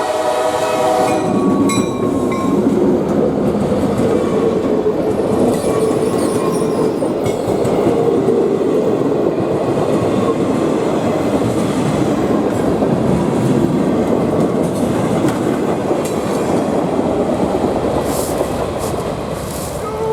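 A diesel locomotive's horn sounds and cuts off about a second in, followed by the train rolling past with a steady rumble and clatter of wheels on rail. The train is led by an EMD SD40-2 locomotive.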